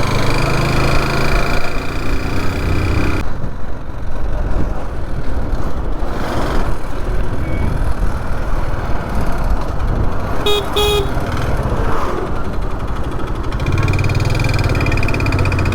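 Motorcycle engine running, steady and even at the start and again near the end, with a rushing, noisier stretch between; two short vehicle horn toots sound about eleven seconds in.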